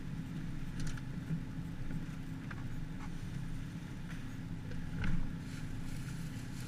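An engine running steadily, a low even drone, with a few light taps over it and a slightly louder knock about five seconds in.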